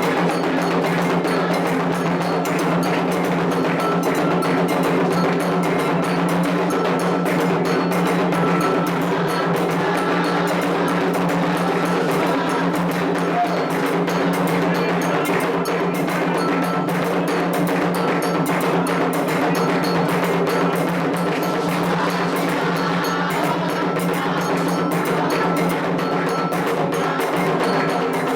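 Candomblé ritual drumming: atabaque hand drums played in a fast, unbroken rhythm, with a metal bell (agogô) beating the time pattern over them.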